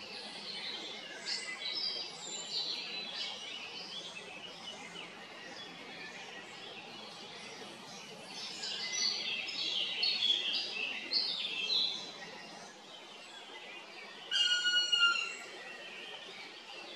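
Several birds chirping and twittering, with a louder, different call lasting about a second near the end.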